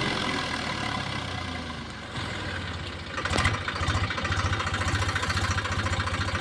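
Tractor diesel engine: its revs fall away over the first two seconds or so. About three seconds in it settles into a steady idle with distinct, rhythmic firing pulses.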